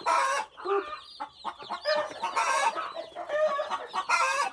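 Day-old Cornish cross chicks peeping constantly in quick, high chirps. Adult chickens call loudly behind them three times.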